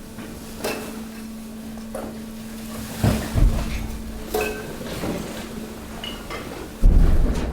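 Hydraulic waste compactor pressing mixed waste: a steady hum from the machine under irregular cracks, snaps and knocks as the load is crushed. There are heavy low thumps about three seconds in and again near the end, the last one the loudest.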